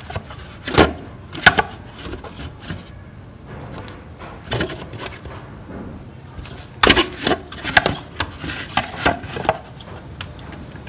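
Irregular clicks and knocks of a 17 mm socket wrench working on a scooter's engine-oil drain plug as it is turned counterclockwise to loosen it. The knocks come singly about a second and a half apart at first, then in a quicker run of several near the end.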